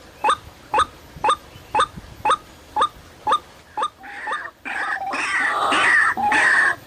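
White-breasted waterhen calls: short, evenly repeated notes about two a second, breaking about four seconds in into a louder, denser run of harsh croaking calls.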